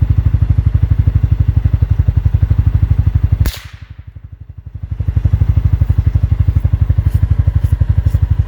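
A vehicle engine idling steadily, with a single gunshot about three and a half seconds in. After the shot the sound dips for a moment before the idle comes back up.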